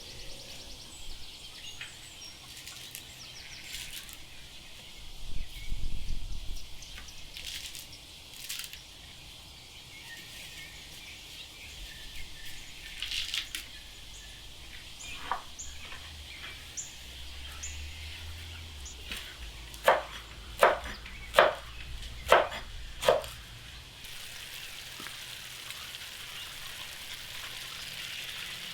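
Food sizzling quietly in a pot over a campfire, with birds chirping. About two-thirds of the way through come five sharp knocks, roughly one a second, the loudest sounds.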